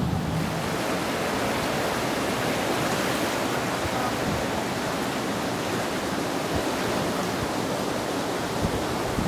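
Steady rush of the flood-swollen Mohawk River's fast-moving water.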